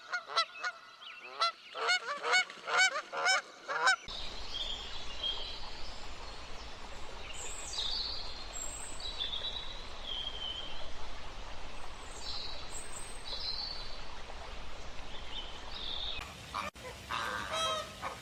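A quick run of repeated honking calls, two or three a second, for about four seconds. Then a steady outdoor hiss with scattered high bird chirps.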